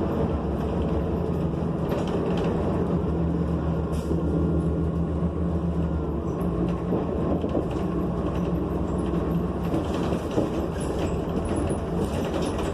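Inside a New Flyer XN40 city bus under way: its Cummins Westport ISL G natural-gas engine runs steadily with road noise and scattered small rattles.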